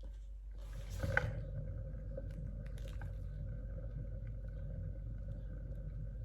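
Tile spinner turning the wet painted tile: a steady low whir with a faint steady hum starts about half a second in, with a light knock just after it gets going.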